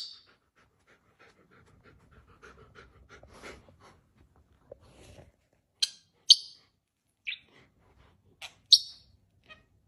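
A dog panting softly, then a bird giving a handful of sharp, short, high calls in the second half.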